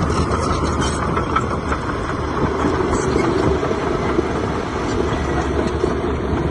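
Heavy diesel earthmoving machinery running steadily with a low rumble.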